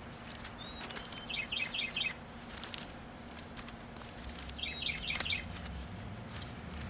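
A songbird singing two short phrases, each a quick run of chirped notes, about a second in and again past the middle. Underneath is soft rustling of potting soil being worked by gloved hands.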